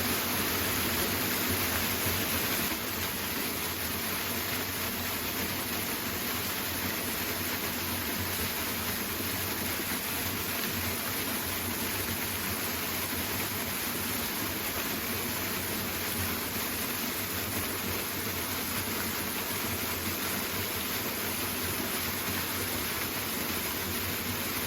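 Waterfall: steady rushing of falling water, an even roar with no breaks, easing slightly about three seconds in.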